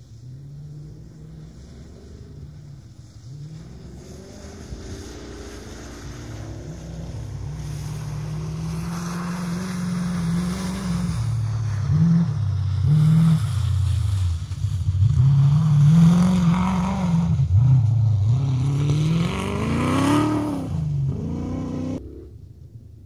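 Comp-safari off-road competition car's engine revving hard and easing off again and again as it works along the rough stage, growing louder as it draws near and passes. The sound cuts off abruptly near the end.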